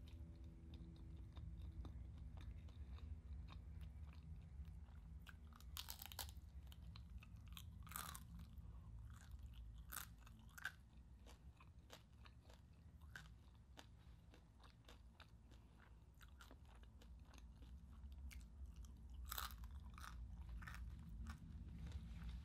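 A person chewing crispy pork close to the microphone: repeated crisp crunches and wet chewing, with a few louder crunches scattered through.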